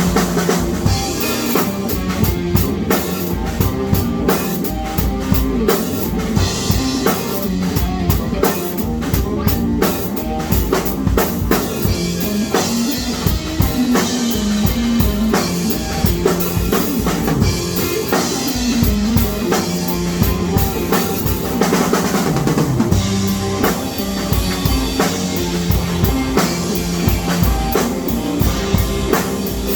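Music driven by a drum kit, with kick drum, snare and rimshot strokes over a moving bass line.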